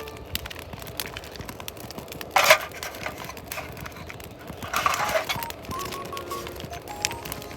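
Light handling clatter: scattered small clicks and clinks, with two louder brief scraping rustles, one about two and a half seconds in and one around five seconds in.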